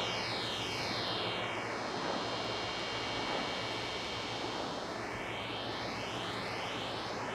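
King Drone analog drone and noise synth playing a steady noisy drone through its high-pass filter, with low held tones underneath. A phaser-like sweep slides the hiss down over the first couple of seconds and back up toward the end.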